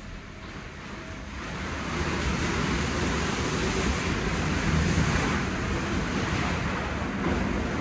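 WashTec SoftCare Pro rollover car wash running a wash pass, a loud steady rush of spraying water and machinery on the car that swells about a second and a half in, then holds even.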